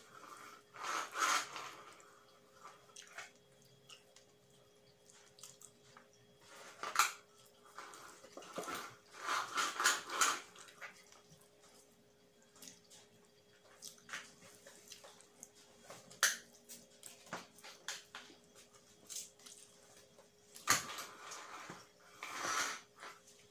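Close-miked eating by hand, of curry and rice: chewing and mouth noises, with fingers working rice on a plate. These come as scattered short bursts and a few sharp clicks.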